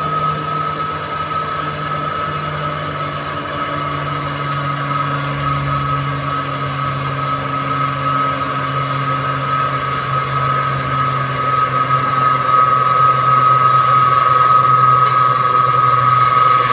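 Diesel truck engine running steadily under load, with a steady high whine over it, slowly growing louder.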